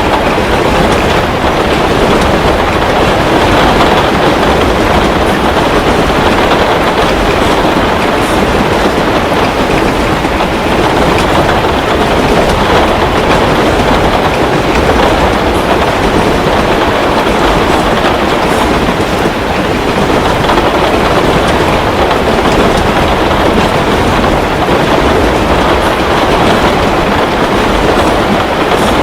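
Heavy rain falling steadily, a loud, even wash of noise, with a few faint crackles from a wood fire in a fireplace now and then.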